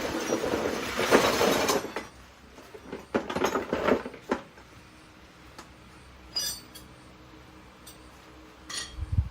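Metal parts and tools clinking and clattering as motorbike parts are taken off: a run of clatter in the first two seconds, another around three to four seconds in, then single clinks.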